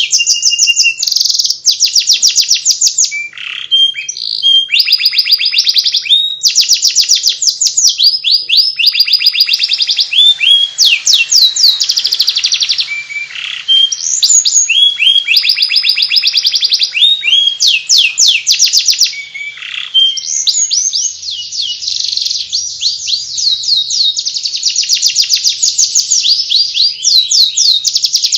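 Domestic canary singing its continuous chattering 'ngeriwik' song: long runs of rapid, repeated trilled notes, high-pitched, changing from one run to the next with only short breaks.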